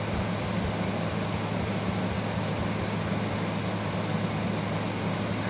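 Room air conditioner running steadily: a constant low hum under an even rush of air.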